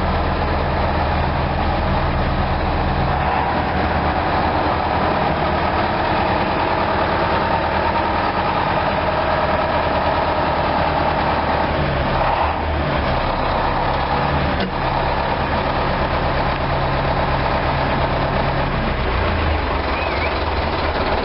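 Tractor engine running steadily, its low note shifting a few times as it is driven.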